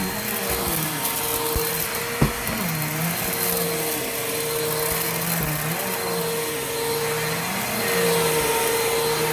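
Bissell PowerForce Helix Turbo upright vacuum cleaner running steadily, its motor pitch dipping and rising as it works, with a sharp knock about two seconds in.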